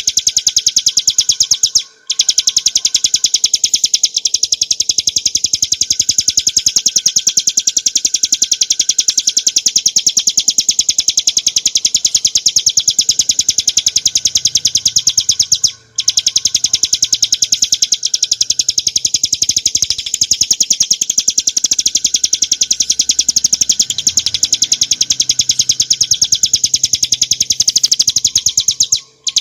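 Ciblek gunung (a prinia) singing a long, unbroken run of very fast, high, rapid-fire notes. The song stops for a moment about two seconds in and again about halfway through.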